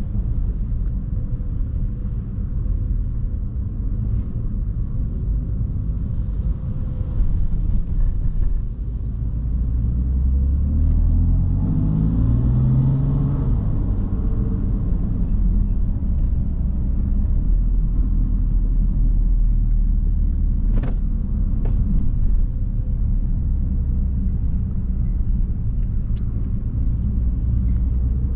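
BMW M3 F80's 3.0-litre twin-turbo inline-six running under way with a steady low rumble and road noise. About halfway through, the revs climb briefly and then fall away.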